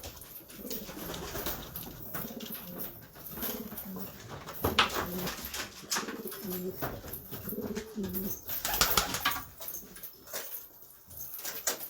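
Domestic pigeons cooing in low, rolling calls, with now and then a sharp clatter of movement.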